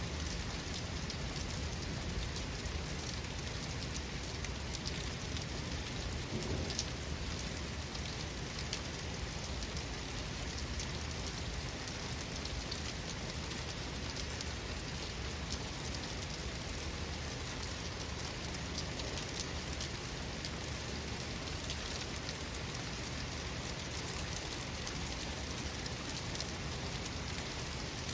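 Steady rain falling, with many sharp drop hits and a low rumble underneath.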